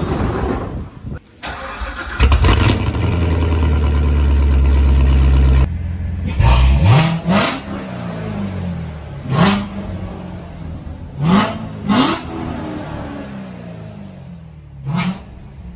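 Chevrolet Corvette C7 V8 starting about two seconds in with a flare and running loud and steady. It drops back after a few seconds and is then revved in about six short throttle blips that rise and fall back.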